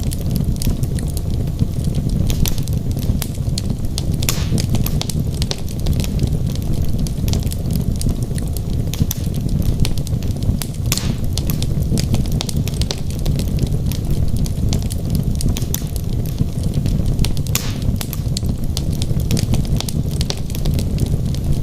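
Wood fire burning in a fireplace: a steady low rumble of flames with irregular sharp crackles and pops from the burning logs, a few pops standing out louder.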